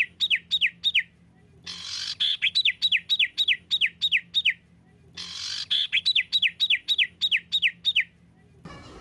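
A songbird's song: runs of sharp whistled notes, each sliding steeply downward, about three a second, repeated as the same burst three times with short pauses between. Near the end a different, busier bird call starts.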